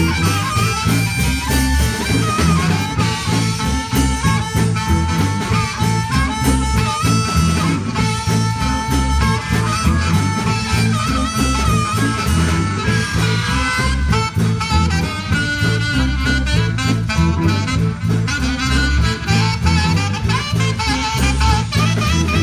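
Live band playing an instrumental stretch of the song: a steady beat in the bass and drums under a wavering lead melody.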